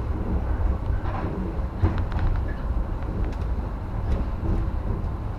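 Running noise of a JR West 115 series electric train heard from inside its leading car as it pulls out of a station: a steady low rumble with a few faint clicks.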